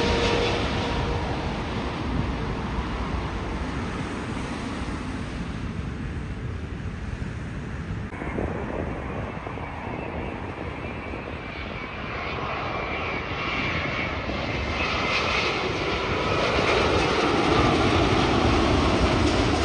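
Jet airliners' engines: one aircraft fading away with a falling whine, then a quieter stretch. From about two-thirds of the way in, another aircraft's engines grow steadily louder with a whining tone.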